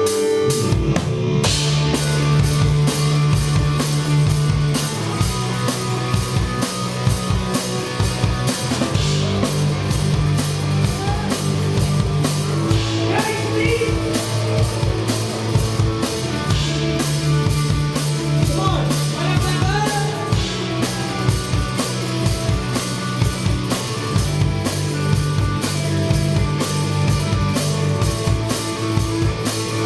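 Live rock band playing a song: a drum kit keeping a fast steady beat under sustained bass and electric guitar, heard loud from beside the drums.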